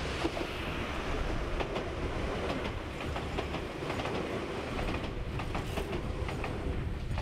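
Enoden electric train passing, its wheels rumbling and clicking over the rail joints.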